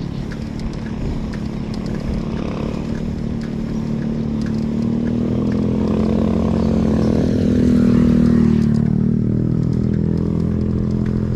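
A motor vehicle's engine running under way, its pitch and loudness climbing steadily to a peak about eight seconds in, then dropping back as it eases off.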